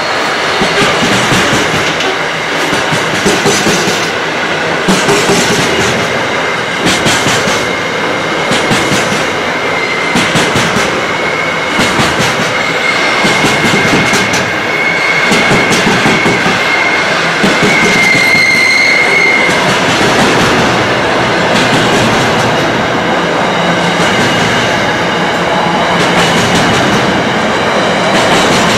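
Container wagons of an intermodal freight train rolling past at close range, their wheels clicking over the rail joints. A thin, high wheel squeal comes in about ten seconds in and fades out about twenty seconds in.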